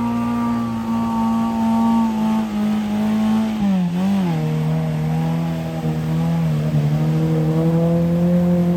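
Mud-racing truck's engine held at high revs under load through a mud slough. About four seconds in, the pitch drops and wavers, then it climbs slowly again.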